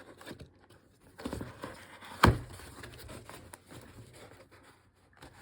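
Cardboard packaging being handled and opened, with scattered rustles and small taps and one sharp knock about two seconds in.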